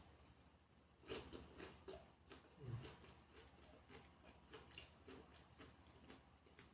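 Faint close-miked chewing and mouth clicks of someone eating, with a cluster of small crunches about a second in and scattered soft clicks after.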